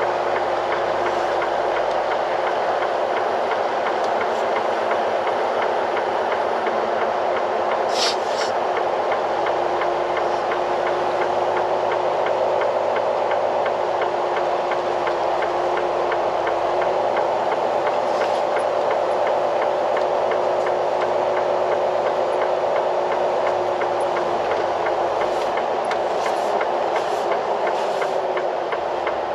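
Steady, continuous heavy vehicle noise with a droning hum and no let-up, broken by a sharp click about eight seconds in and a few more near the end.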